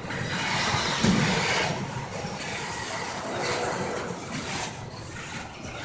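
Intermodal freight train rolling past: a steady rumble and rush of wheels on rail, with a louder clank about a second in.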